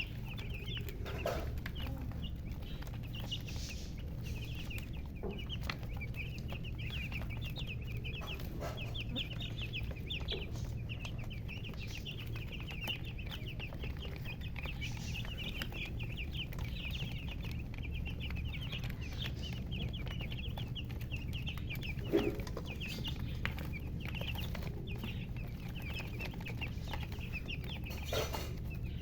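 A group of chicks peeping continuously in rapid, high, overlapping cheeps, with a few louder, lower chicken calls standing out now and then. A steady low hum runs underneath.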